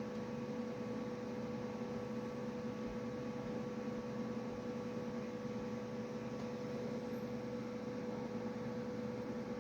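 Computer tower fan running with a steady hum and a constant tone.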